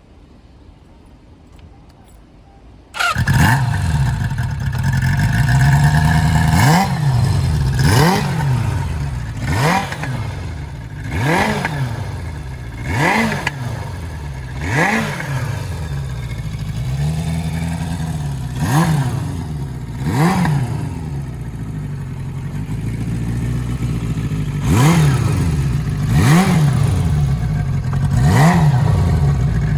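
Kawasaki KZ550GP air-cooled inline-four motorcycle engine starting suddenly about three seconds in, then idling while the throttle is blipped over and over, each rev rising and dropping back to idle every second or two.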